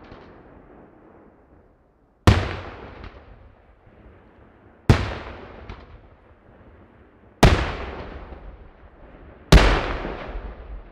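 Four loud aerial firework shells bursting in a daytime display, one every two to two and a half seconds. Each is a sharp bang followed by a long rolling echo that fades away.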